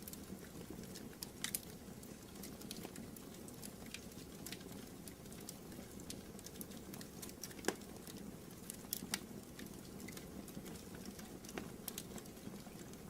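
Wood fire crackling in a fireplace: irregular pops and snaps over a low, steady rumble, with the sharpest pop a little past the middle.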